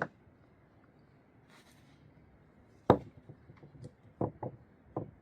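A series of sharp knocks: one right at the start, the loudest about three seconds in, then several more in quick succession near the end.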